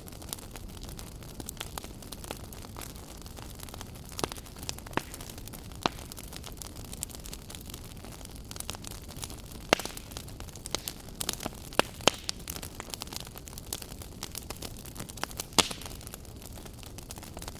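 Wood fire burning in a fireplace: a steady low rumble of flames with irregular sharp crackles and pops, a few louder snaps standing out in the second half.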